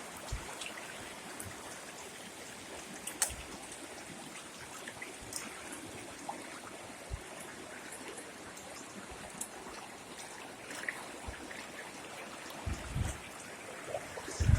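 Rising floodwater running steadily past, an even rushing hiss, with a few faint ticks and knocks scattered through it.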